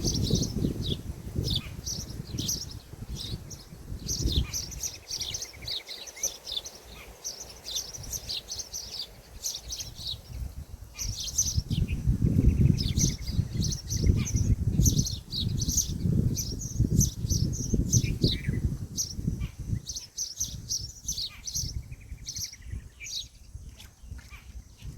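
Birds chirping in many short, high-pitched notes throughout, over a low rumbling noise that swells in the middle stretch.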